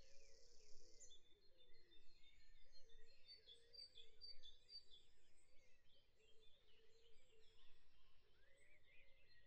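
Very faint birds chirping and twittering, many short rising and falling calls, close to silence.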